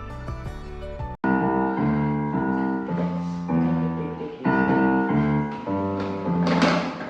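Piano music: after a sudden brief cut about a second in, it continues with louder, slow sustained chords.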